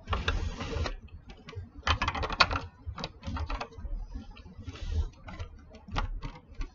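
Small plastic building-block pieces clicking and rattling as they are handled and pressed into place, a run of irregular sharp clicks with a few short rattling bursts.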